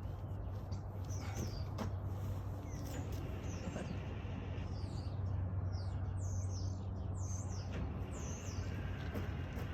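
Small birds chirping: a run of quick, high calls that sweep downward, most of them in the second half. Under them runs a steady low hum.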